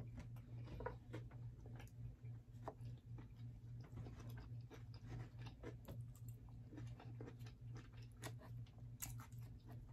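Faint chewing and mouth sounds of a person eating, with scattered small clicks and smacks. A low steady hum sits underneath.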